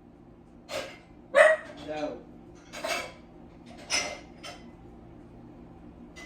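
A dog barking: about six short, separate barks, the loudest about a second and a half in.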